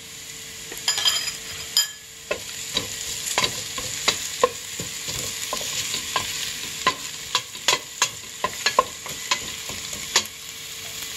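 Chopped lemongrass and hot pepper sizzling in oil in a stainless steel pot, with a wooden spoon scraping and knocking irregularly against the pot as it stirs.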